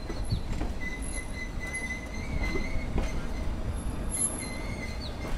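Nilgiri Mountain Railway metre-gauge train running slowly, with a steady low rumble of the carriages and a high wheel squeal that comes in twice.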